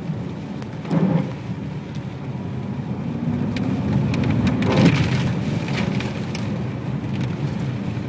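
Ferrari 599 GTB Fiorano's V12 engine running at low revs under steady wet-tyre road noise, with two louder whooshing swells about a second and five seconds in.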